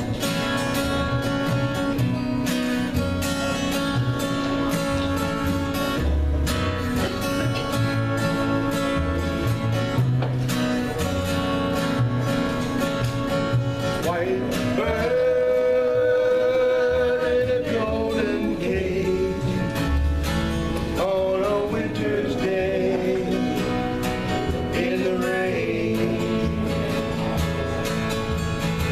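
Acoustic guitar strumming with a man singing, starting about halfway through.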